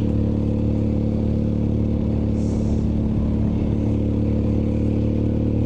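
BMW R1250GSA's boxer-twin engine running steadily at an even cruising speed, heard from on the moving motorcycle.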